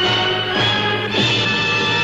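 Orchestral music with bowed strings playing sustained chords.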